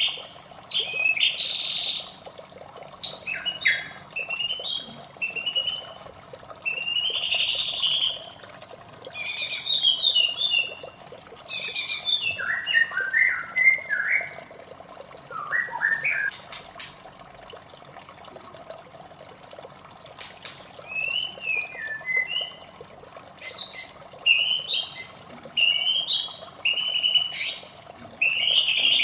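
White-rumped shama singing bursts of varied whistled phrases, with a pause of a few seconds in the middle, over the steady sound of running water.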